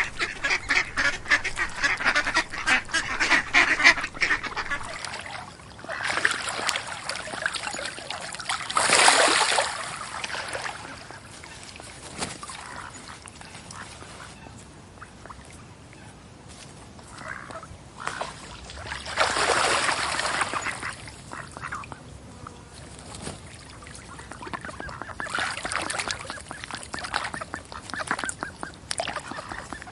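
Ducks quacking in bouts: a rapid run of quacks at the start, loud outbursts about a third and two-thirds of the way through, and more calling near the end, with quieter spells between.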